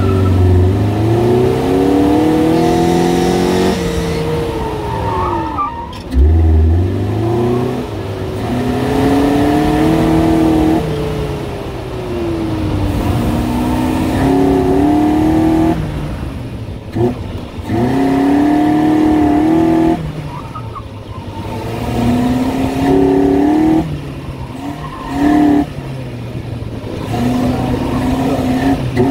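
Toyota Celica engine revving hard as the car is driven quickly around a tight course, the revs climbing and dropping again and again with gear changes and lifts, with short squeals in between.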